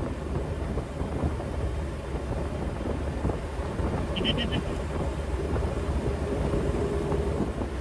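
Jeep TJ Wrangler with a swapped 1.9 L four-cylinder BEW TDI diesel cruising at 55 mph around 2200 RPM, heard as steady engine, road and wind noise. A few short high chirps come about four seconds in.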